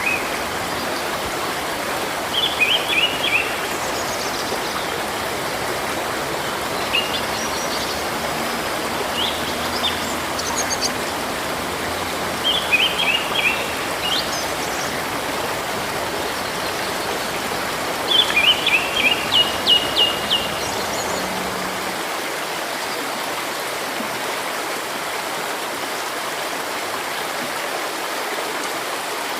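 A river or stream running steadily, with small birds calling over it in several short bursts of quick high chirps; the calls stop about two-thirds of the way through, leaving only the water.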